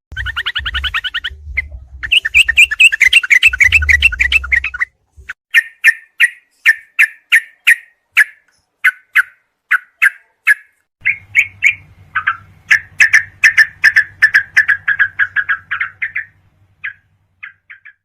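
Yellow-vented bulbul (trucukan) song: rapid chattering trills, then a string of separate clear notes about two a second, then a quicker run of notes that thins out to a few scattered ones near the end.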